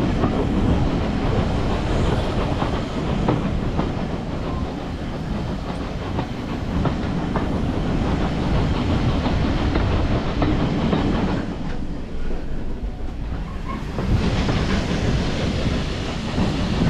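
A train running on rails, its wheels clattering steadily over the rail joints. The sound briefly turns duller about twelve seconds in, then comes back full.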